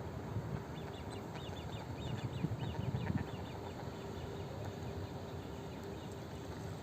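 A runner's footsteps thudding unevenly, with a small bird giving a quick series of short high chirps about a second in, lasting some two seconds.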